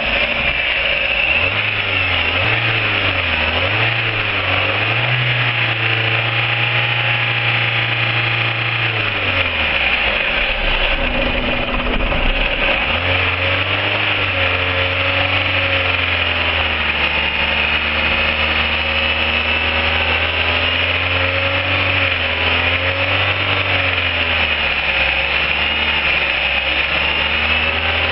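Fiat 1.6 16V four-cylinder petrol engine running just after starting, its speed wavering up and down for the first several seconds. It dips about ten seconds in, then settles to a steadier idle.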